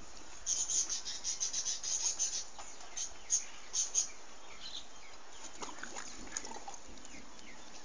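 Small birds chirping: a quick run of short, high notes for about three and a half seconds, then a few scattered fainter calls, over a steady background hiss.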